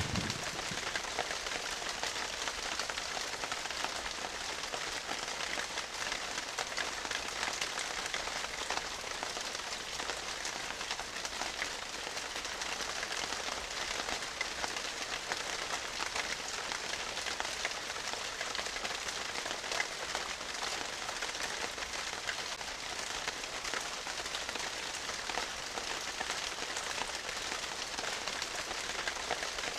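Steady rain, an even hiss with fine crackle that does not change.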